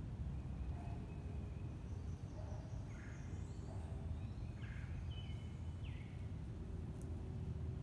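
A few birds chirping briefly now and then, clustered about midway, over a steady low background rumble.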